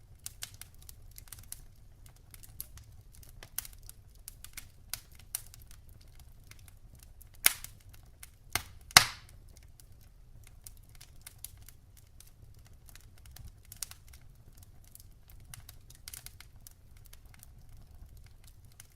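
Wood fire crackling in a fireplace: irregular sharp pops and snaps over a low steady rumble, with a few louder pops about halfway through.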